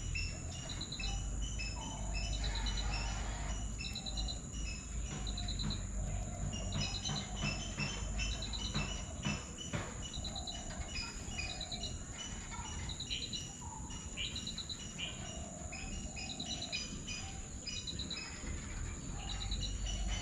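Small birds chirping in short repeated bursts, roughly one or two a second, over a steady high insect-like hum and a low rumble. A few sharp clicks come around the middle.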